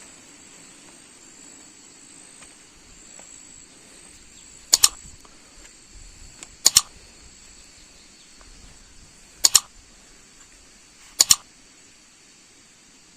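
Four sharp double clicks, each a quick pair, about two seconds apart, over a steady high insect drone.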